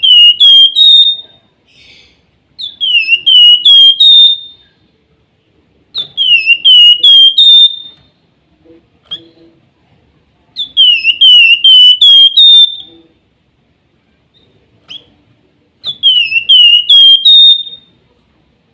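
A flamboyan (wergan jawa) songbird singing its whistled 'nyiul' song. The phrase comes five times, each a quick run of four or five slurred notes that dip and rise, ending on a longer, higher note, with pauses of a second or two between phrases.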